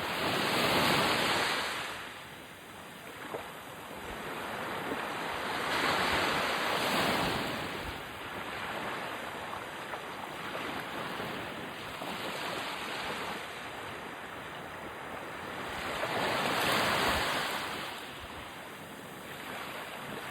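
Ocean surf: waves breaking and washing in as a continuous rush, swelling louder three times, about a second in, around six seconds, and near the end.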